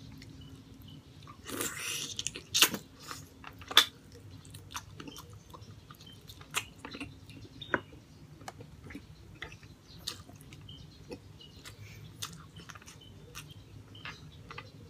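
Close-miked chewing of braised pork hock: irregular wet mouth clicks and smacks, with a louder bite about two seconds in.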